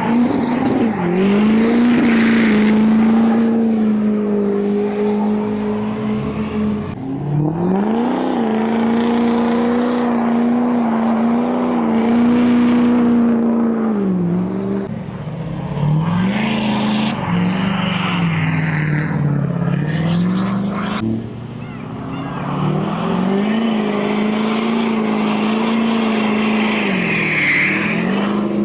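A car engine revved and held at high rpm for several seconds at a time, dropping off briefly and climbing back about four times, as in a burnout, with a steady hiss of noise over it.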